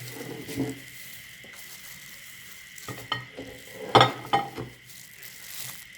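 Crunchy snack being crushed in a meat grinder: a low crackling with a few sharp crunches about three and four seconds in, the loudest near four seconds.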